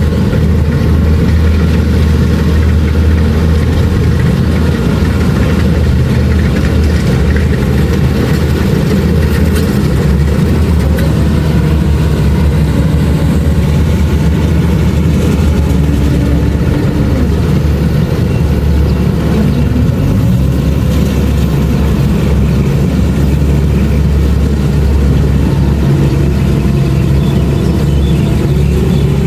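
Kubota DC-70 Plus combine harvester's diesel engine running steadily with a loud, even, deep hum.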